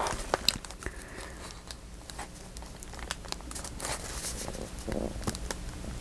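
Paper rustling and crinkling with small scattered clicks and taps as glue is spread right up to the edge of a paper piece.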